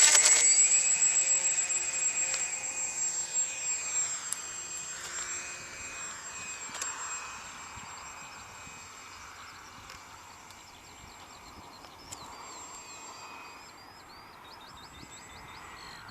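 Twin electric motors of a Multiplex Twinstar II model flying boat running at full power, a high whine that is loudest at first and fades steadily as the model moves away, with a thin steady high tone under it.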